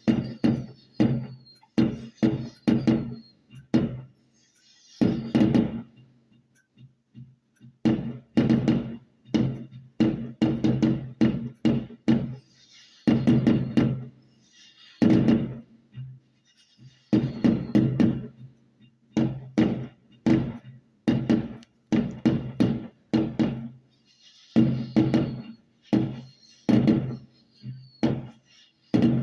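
Fireworks display: a long run of irregular bangs, some followed by high crackling, with a falling whistle near the start and again near the end.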